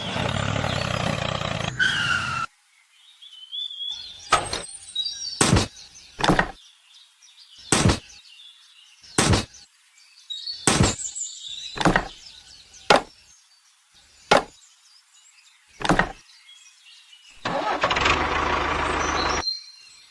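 A loud, dense noise for about two and a half seconds, then a run of about ten sharp knocks at irregular intervals of roughly a second, with faint chirps between them, then another loud noisy stretch near the end.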